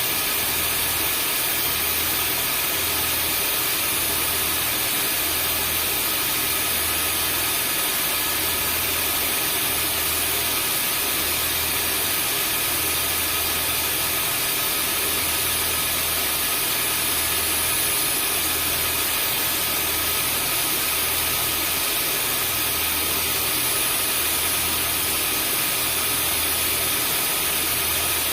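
Vacuum cleaner motor running steadily: an even rushing whoosh with a constant high whine over a low hum, unchanging throughout.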